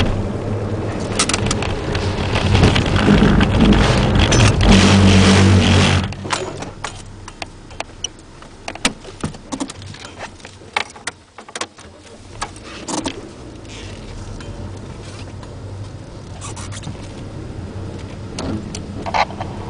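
Ford Puma 1.7 VCT inline-four engine heard from inside the cabin, running loud under throttle for about six seconds and then dropping off sharply as the throttle is lifted. The engine then runs quieter and slowly builds again, with scattered clicks and knocks throughout.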